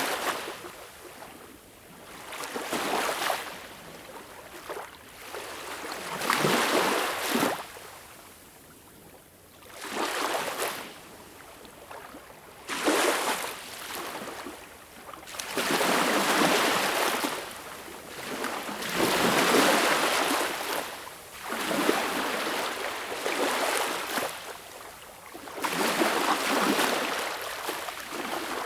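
Ocean waves breaking and washing on a shore, one after another every few seconds, each surge of hiss rising and falling away.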